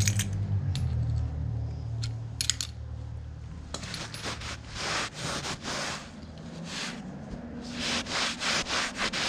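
A few sharp clicks and taps, then a run of short rubbing strokes, about two or three a second, like wiping with a rag or towel.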